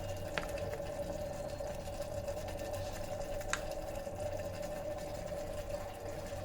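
Electric kettle heating the sauces, with a steady hum and a soft frying hiss, and two faint clicks.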